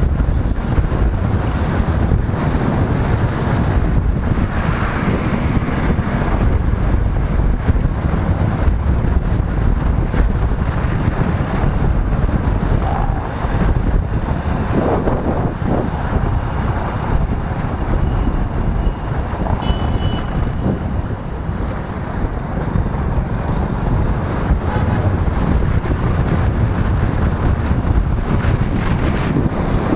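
Wind buffeting the microphone on a moving motorcycle, with the bike's engine and road noise running beneath it.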